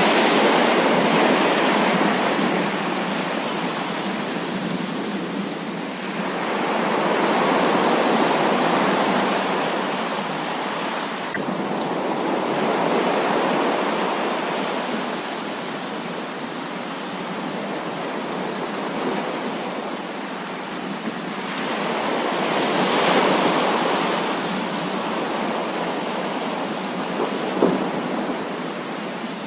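Heavy rain falling steadily, with rolls of thunder that swell and fade over a few seconds each, several times.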